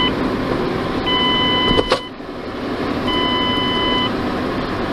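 A repeating electronic beep, each tone about a second long with a one-second gap, over the steady road noise of a car driving. A single sharp click about two seconds in.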